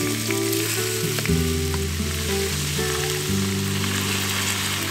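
Thin-sliced beef sizzling in a hot pan as sukiyaki cooks, a steady frying hiss. Background music with low sustained notes plays under it.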